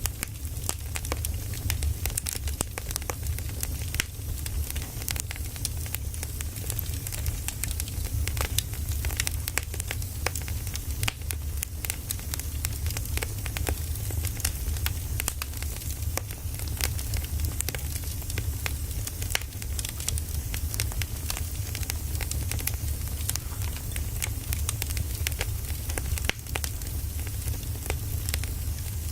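Burning firewood crackling, with frequent small irregular pops and snaps over a steady low rumble.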